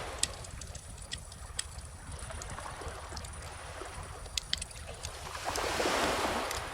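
Bonfire crackling with scattered sharp pops, over the wash of calm ocean waves; a wave swells in and breaks about five and a half seconds in, then fades.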